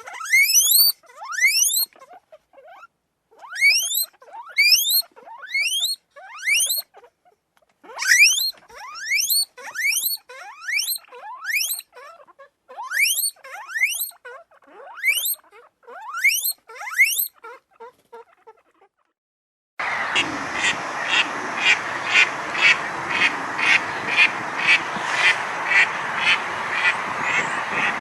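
An animal giving a run of short, high, rising squeaky calls, about two a second with brief pauses. About twenty seconds in, a different, harsher animal call takes over, repeated about twice a second.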